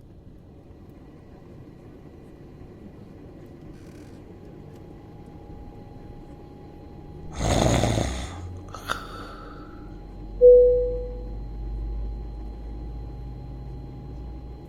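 A man snoring under a steady low hum. A loud rushing burst lasting under a second comes about halfway through, with a click just after, and a short loud tone about two-thirds in.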